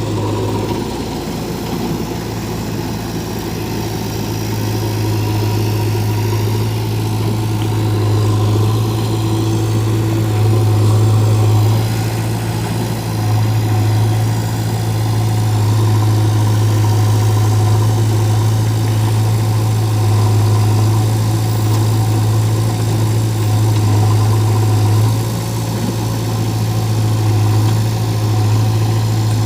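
Heavy diesel engine running steadily at low revs with a deep, even hum, dipping briefly in loudness twice.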